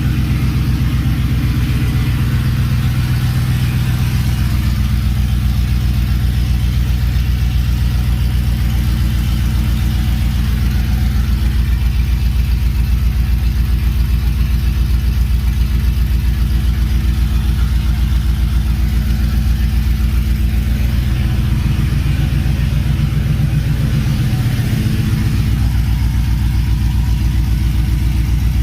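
Ford F-150's 5.0 Coyote V8 idling loudly through catless 2M headers, straight-piped with no muffler, on its first run after the header install. The idle holds steady, with a brief change and dip in pitch a little past two-thirds of the way in.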